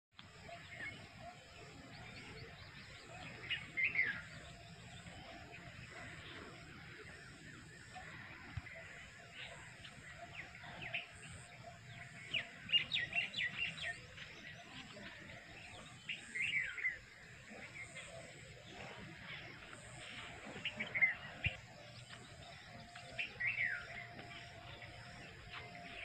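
Birds chirping in short clusters of quick calls every few seconds, over a faint, steady outdoor background.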